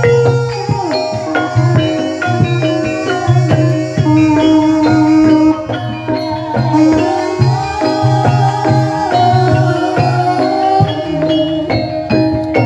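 Javanese gamelan music for ebeg horse-trance dance: struck metal keys and gongs play a rhythmic, repeating melody over steady drum strokes.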